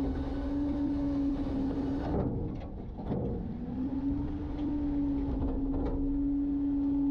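Garbage truck running, a low engine rumble under a steady whine that falters briefly about two seconds in and then settles steady again.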